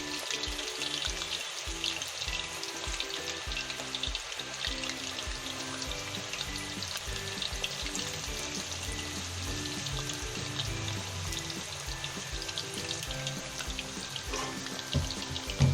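Food frying in hot oil in a pan, with a steady sizzle and fine crackle. Soft background music plays underneath.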